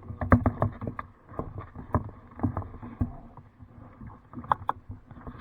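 Irregular knocks and clunks against a kayak, from a paddle or gear bumping the hull.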